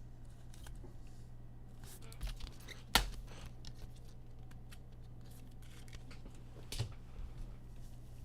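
Trading cards and their packaging being handled: light clicks and rustles over a steady low hum, with a sharp snap about three seconds in and another near seven seconds.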